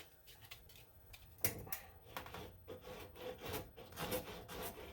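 Hand sanding of body filler with sandpaper on a hockey puck used as a small block, rubbing back and forth in repeated strokes that begin about a second and a half in. The filler is only partly cured, sanded just before it sets hard to save work.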